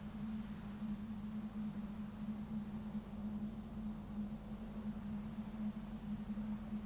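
Quiet outdoor coastal ambience: a steady low drone, with faint short high chirps repeating about every two seconds.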